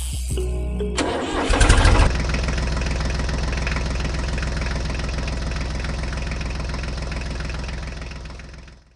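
An engine starts about a second in, is loudest briefly, then runs steadily before fading out near the end.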